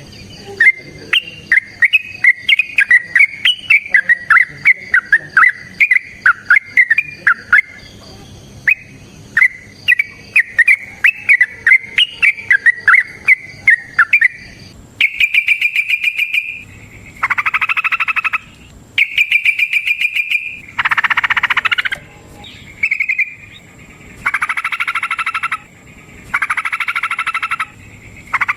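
Yellow-vented bulbul singing a long run of quick, bubbly chirping phrases. About halfway through, the song gives way to a series of harsh buzzing rattles, each about a second long and coming roughly every two seconds.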